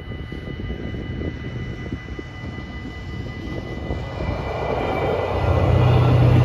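Stadler GTW diesel multiple unit approaching a level crossing, its low engine rumble growing steadily louder over the last two seconds. The crossing's electronic bells keep up a steady ringing tone throughout.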